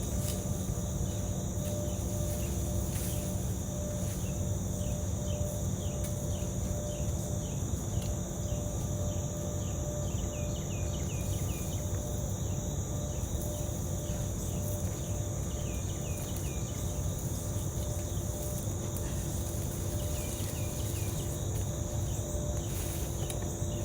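Steady outdoor insect chorus of crickets, a constant high-pitched drone, over a low rumble. Runs of short falling chirps come and go several times.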